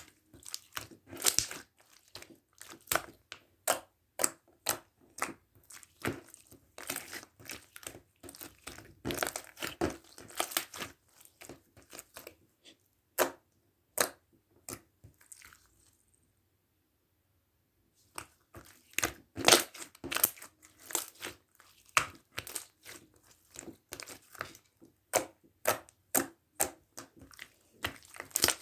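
Glitter foam-ball slime (floam) being squished and kneaded by hand, the foam beads crunching and crackling in quick, irregular pops. There is a pause of about two seconds a little past halfway.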